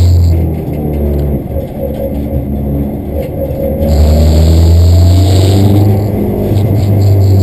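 Peugeot 207 race car's engine heard from inside the cabin, accelerating hard off the start, the revs climbing and dropping back at a gear change about four seconds in, with a rising rush of noise as the car gathers speed.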